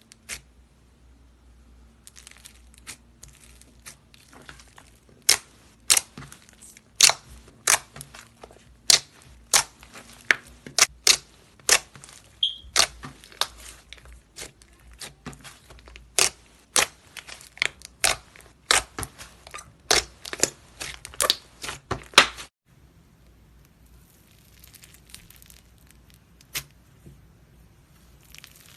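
Slime mixed with clay being kneaded and pressed by hand, giving sharp sticky pops and crackles at about two a second. The pops stop abruptly about three quarters of the way through, leaving only faint handling sounds.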